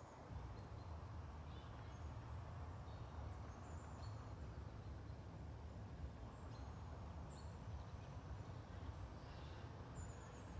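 Forest ambience: faint, short high bird chirps scattered through a steady low rumble.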